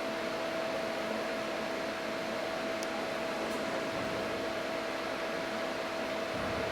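Steady mechanical hum with an even hiss and two constant tones, like a fan or other running machine, with a couple of faint ticks midway.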